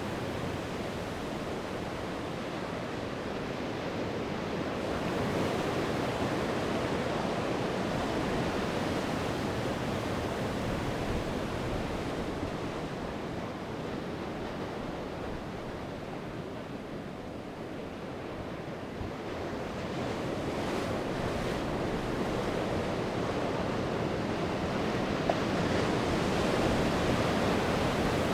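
Sea waves breaking and washing on the shore in a steady roar that swells and ebbs slowly, dipping a little past the middle and building again toward the end, with some wind noise.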